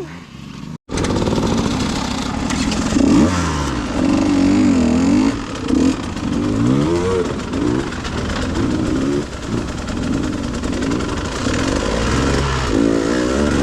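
Dirt bike engine revving up and down over and over as it is ridden over rough ground, with a brief break just under a second in.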